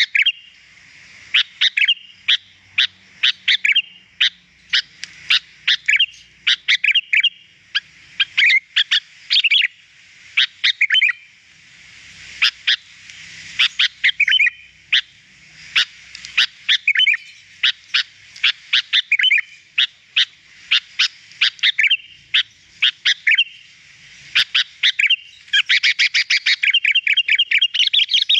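Sooty-headed bulbul (kutilang) singing: short, bright, chirpy phrases repeated one after another with brief pauses, breaking into a fast run of rapid notes near the end.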